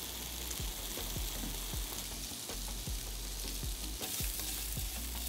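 SPAM Tocino cubes frying in a nonstick wok with a steady sizzle. Short soft knocks come every half second or so as the pan is tossed and the cubes land back in it.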